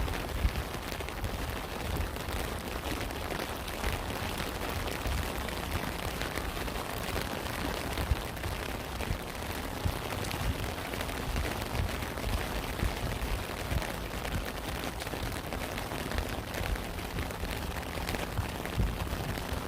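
Steady rain falling, with many separate drops ticking close by over an even hiss and a low rumble underneath.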